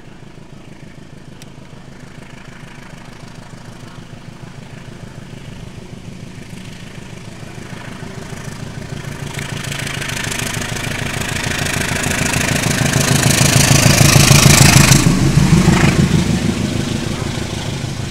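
Diesel locomotive hauling a passenger train approaching and passing close by: its engine drone grows steadily louder, peaks about fourteen to fifteen seconds in as the locomotive goes past, then falls away as the carriages roll by.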